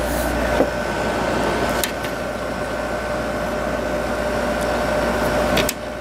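Emerson Quiet Cool 6300 BTU window air conditioner running, a steady whirring hum with a faint whine, with a click about half a second in. The hum stops abruptly near the end.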